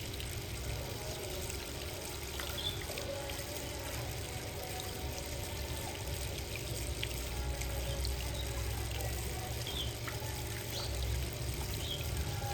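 Water trickling and splashing steadily at a birdbath, with a few faint, short bird chirps.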